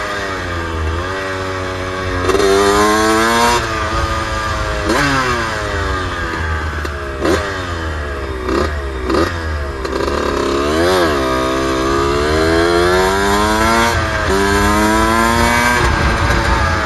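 Suzuki RM125 two-stroke dirt bike engine being ridden, its pitch climbing and falling over and over as the throttle is worked through the gears. Several short throttle blips come in quick succession midway, and it holds at high revs twice, about two seconds in and again near the end.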